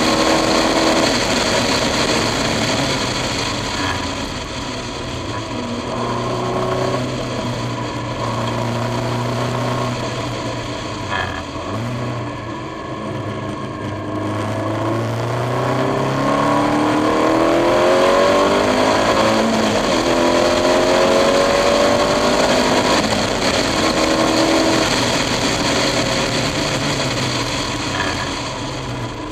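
KTM X-Bow's four-cylinder engine accelerating hard on track, its note climbing through the gears in repeated rising runs, then falling as the car slows for corners.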